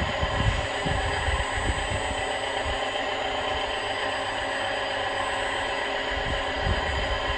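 Electric drive of a radio-controlled model dump truck whining steadily, with soft irregular low thumps in the first couple of seconds and again near the end.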